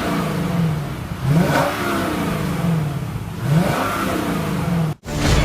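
Lexus LS 460's 4.6-litre V8 being free-revved: two quick blips, each rising sharply and then falling slowly back toward idle. The engine sound cuts off abruptly near the end.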